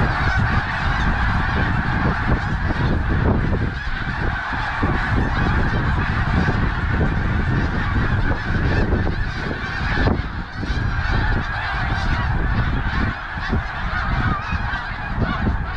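A huge flock of snow geese calling all at once: a dense, unbroken din of overlapping high honks, with a steady low rumble underneath.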